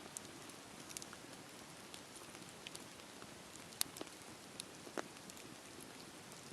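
Campfire burning with a soft steady hiss and scattered sharp crackles and pops from the burning wood, the loudest a little under four seconds in.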